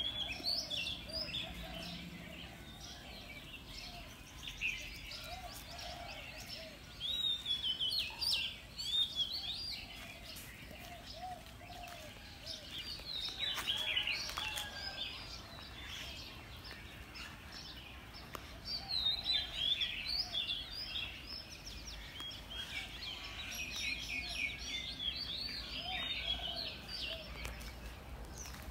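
Several birds chirping and calling: bunches of quick, high twittering with fainter, lower short calls beneath, over a faint low rumble.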